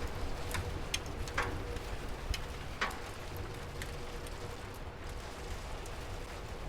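Rain falling as a steady hiss with a low rumble underneath, and individual drops ticking sharply now and then.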